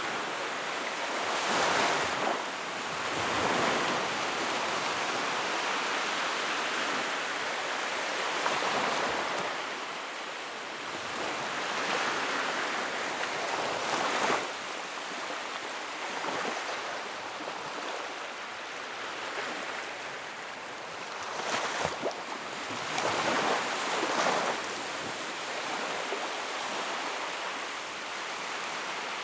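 Sea waves washing onto a shore, a continuous rush of surf that swells and eases, with stronger breakers about two seconds in and again around three quarters of the way through.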